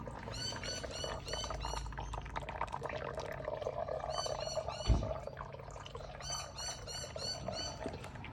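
Old engine oil being sucked out of a Toro TimeMaster mower's sump through an oil extraction pump's tube, gurgling and slurping steadily. A bird chirps in three bursts of quick repeated notes, and there is a single thump about five seconds in.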